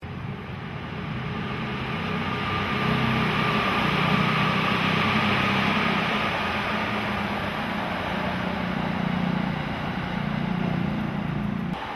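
An electric commuter train running past on the raised embankment tracks: a steady rumble that swells and then eases, with a faint whine over it. The sound changes abruptly just before the end.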